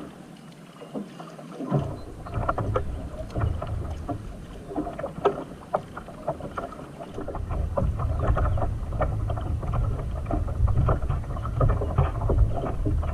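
Paddling a sit-on-top fishing kayak: scattered splashes and knocks of the paddle in the water and against the hull. Wind rumbles on the microphone underneath, starting about two seconds in and growing stronger about halfway through.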